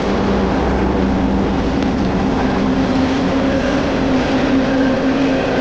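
Train passing close by: a steady, loud rush of steel wheels on rail, with a low humming tone that steps up in pitch about two seconds in.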